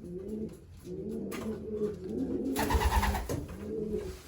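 Racing pigeons cooing in a loft, with repeated low coos overlapping. About two and a half seconds in there is a brief rustling burst.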